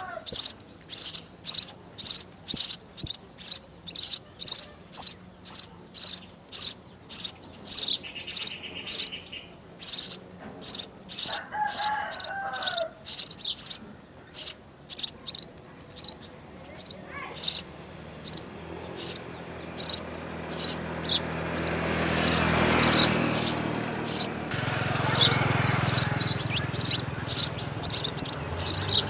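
House sparrows at the nest chirping repeatedly, short high cheeps at about two a second, with a couple of lower warbled calls among them. In the second half a rushing noise swells up under the chirps and then eases.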